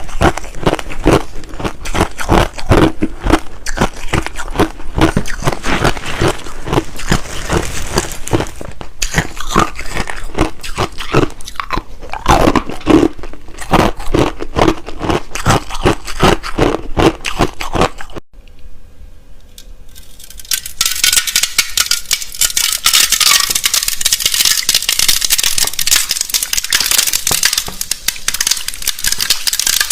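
Close-up crunching of hard clear ice being bitten and chewed, many sharp crunches a second. About eighteen seconds in the crunching stops abruptly, and after a short quiet a steady, dense high crackling takes over.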